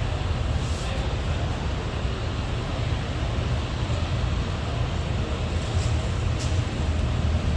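Steady low rumble of a large exhibition hall's background noise, with a few faint clicks.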